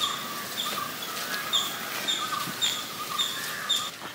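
A bird calling: a short, high chirp repeated about twice a second, with fainter bird calls behind it.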